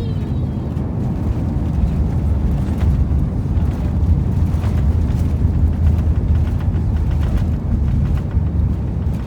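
Steady low rumble of an Airbus A321neo airliner heard from inside the cabin: engine and airflow noise during the landing.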